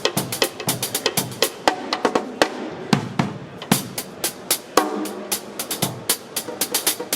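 A Sonor drum kit played live in a busy groove: a quick, steady run of snare, bass drum and hi-hat strokes, several to the second.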